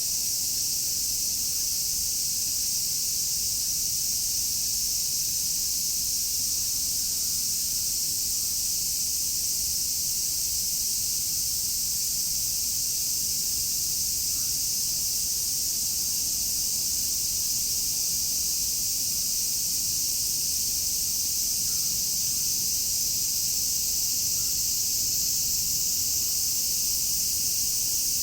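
Chorus of many cicadas singing together: a dense, steady high-pitched buzz that does not let up.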